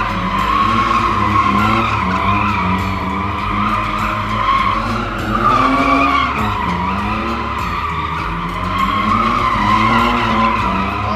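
A car doing donuts: its engine held at high revs, pitch swinging up and down with the throttle, while the rear tires squeal continuously as they spin on the pavement.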